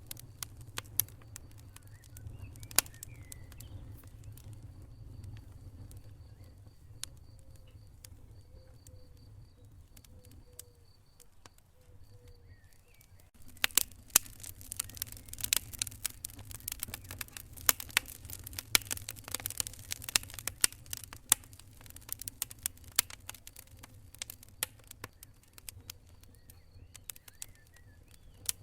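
Wood fire crackling, with sharp pops over a low rumble of flames. The pops are sparse at first and turn into dense, rapid crackling about halfway through.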